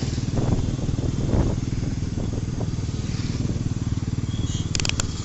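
Bajaj Pulsar NS400Z's single-cylinder engine running with a steady, even firing rhythm. A couple of sharp clicks come near the end.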